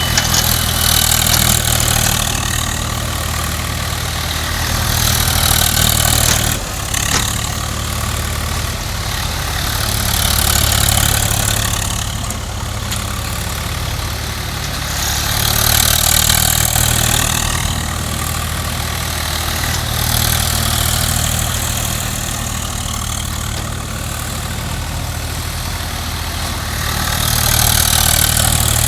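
Heavy diesel engine of an earth-moving machine running steadily at a constant speed, with a hiss that swells and fades every five seconds or so, and a single knock about seven seconds in.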